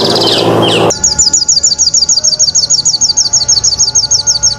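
Sahul (olive-backed) sunbird, Cinnyris frenatus, calling: a high buzzy trill that cuts off about a second in, then a fast run of high, downward-slurred notes, about ten a second.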